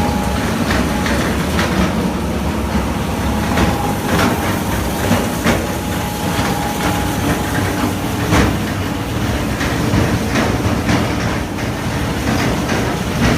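Turntable brick-making press running: a steady low mechanical rumble with frequent, irregular sharp metallic clanks, roughly one or two a second.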